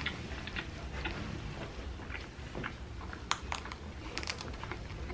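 Quiet eating sounds: scattered soft clicks and smacks of chewing, a little busier in the second half.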